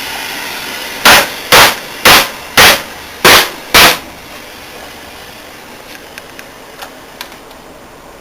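Six loud, sharp cracks in quick succession, about half a second apart, followed by a few faint ticks.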